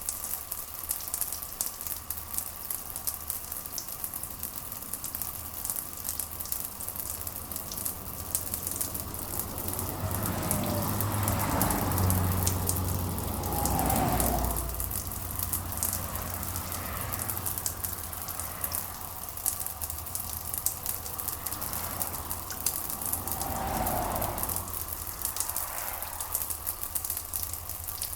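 Steady rain with a dense crackling patter of close drops. A low rumble swells up around the middle and again, more briefly, later on.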